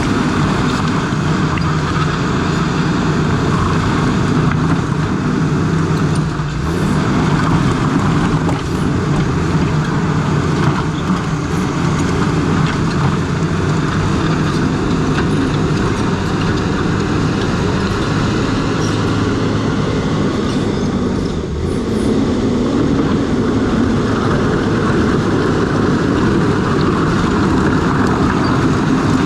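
New Holland crawler dozer's diesel engine running steadily under load, with the clatter of its steel tracks. The engine note dips briefly twice.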